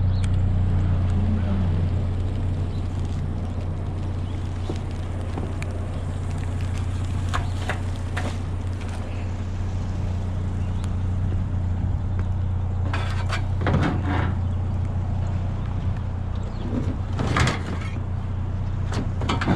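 Pickup truck engine and road noise while driving, a steady low drone, with a few short clunks and rattles along the way.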